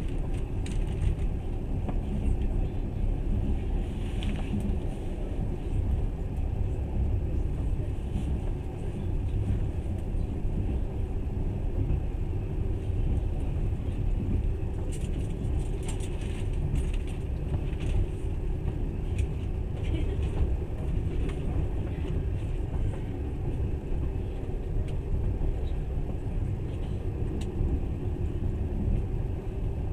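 Steady low rumble of a moving passenger train heard from inside the carriage, wheels running on the rails, with scattered light rattles, most of them about halfway through.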